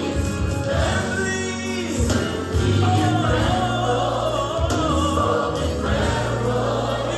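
Gospel music: a choir singing with a band, steady bass underneath.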